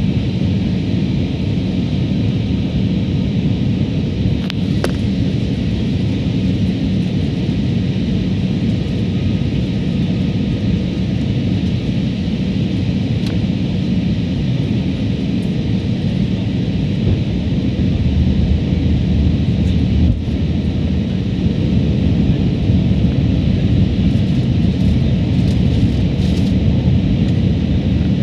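Steady airliner cabin noise in flight: a dense low rumble of engines and rushing air, with faint steady whining tones above it.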